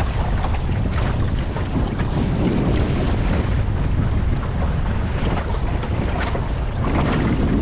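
Wind buffeting the microphone over water rushing and splashing along the hull of a wooden sailboat under sail. The noise is steady and loud, with a heavy low rumble.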